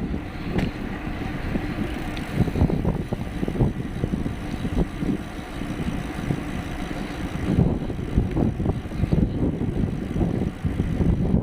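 Wind buffeting the microphone of a camera on a moving bicycle: a gusty, uneven low rumble with road noise.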